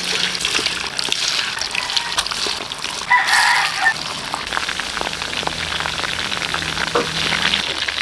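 Flour-dredged chicken wings sizzling and crackling in hot oil in a wok as they are laid in. About three seconds in, a rooster crows briefly and loudly over the frying.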